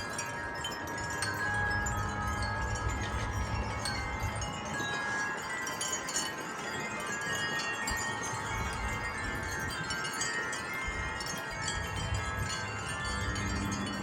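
Several wind chimes ringing in a gust of wind, many overlapping tones struck again and again and left to ring. Wind rumbles on the microphone underneath, coming and going.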